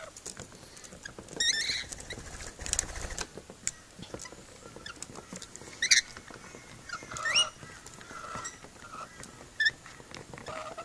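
Lorikeets giving a few short, high chirps and squeaks spaced a few seconds apart, with faint clicking and scratching between them.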